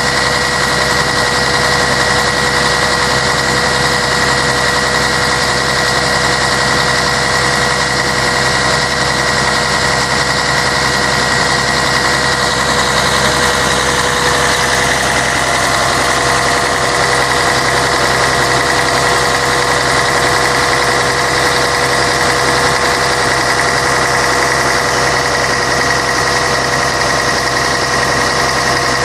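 Scania K113 bus's six-cylinder diesel engine running steadily, with an even drone and steady whining tones over it.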